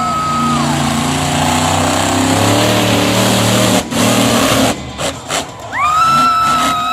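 A loud horn with several pitches sounding together, which cuts off with a falling pitch about half a second in. A crowd then cheers over a low engine rumble, and near the end the horn blares again, rising quickly and holding.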